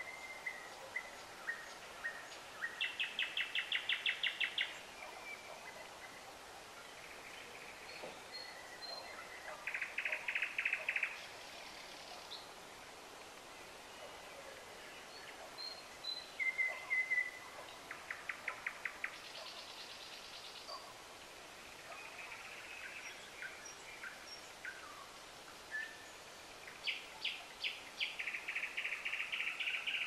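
A songbird singing loud phrases of fast repeated notes, each a second or two long, coming every few seconds, with softer single notes between them.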